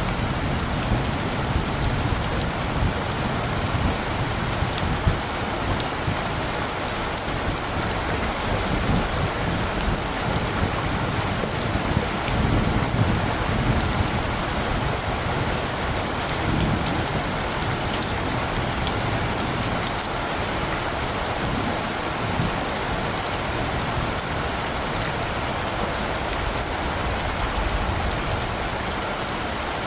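Steady heavy rain falling, a constant hiss with many separate drops ticking sharply on near surfaces.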